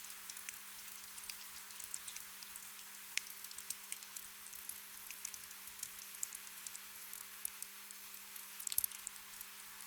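Gentle rain: a soft steady patter with many individual drops ticking, and a brief cluster of louder drops near the end.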